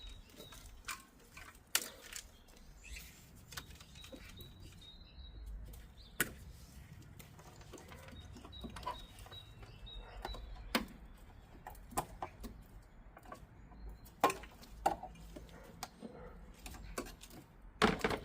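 Irregular sharp clicks and snaps, one every second or so and loudest near the end, of side cutters cutting plastic cable ties and loom clips being pulled free as a van's engine wiring loom is stripped out.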